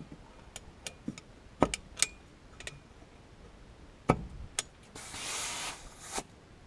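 A series of sharp clicks and knocks of things being handled, the two loudest about one and a half and four seconds in, then a hiss lasting about a second that ends with a click.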